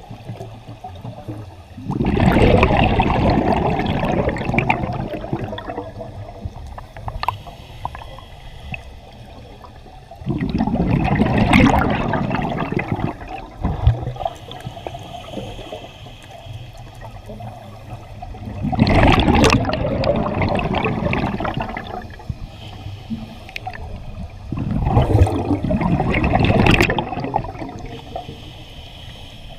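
Scuba diver breathing through a regulator underwater: four loud rushes of exhaled bubbles, each lasting two to three seconds and coming every seven seconds or so, with quieter hiss between breaths.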